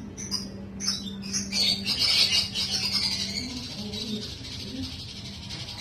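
Bird chicks cheeping: short high chirps at first, then a dense run of rapid chirping about two seconds in. A steady low hum runs underneath.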